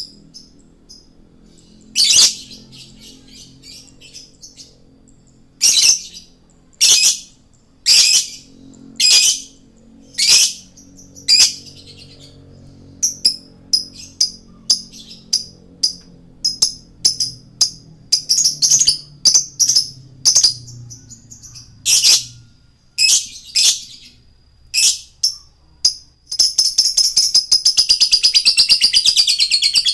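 Male lovebird singing: loud, shrill chirps at irregular intervals about a second apart, breaking into a continuous rapid chattering trill for the last few seconds.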